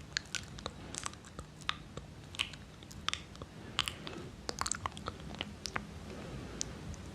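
Close-miked ASMR mouth sounds: irregular wet clicks and smacks of the lips and tongue, a few each second.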